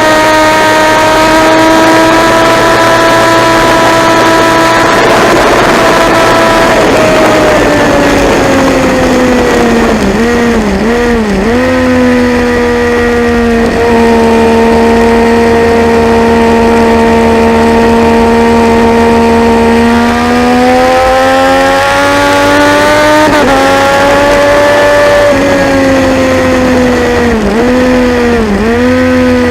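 Triumph Daytona 675's three-cylinder engine under racing load, heard from onboard: revs held high, then falling with a few quick dips and recoveries in pitch around ten seconds in, running steady, climbing to a sudden drop on a gear change, and dipping quickly twice more near the end.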